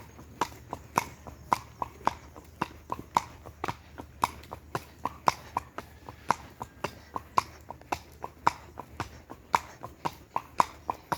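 Horse's hooves clip-clopping in a steady, even rhythm of sharp knocks, about three to four hoof strikes a second, as the horse is ridden.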